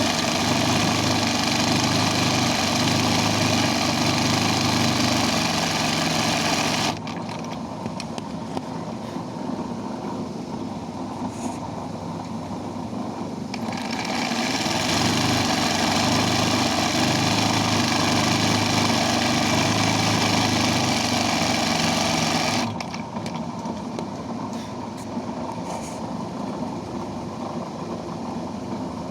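Embroidery machine stitching at speed. It stops abruptly about seven seconds in, leaving a lower hum, speeds back up about fourteen seconds in, and stops abruptly again a few seconds before the end.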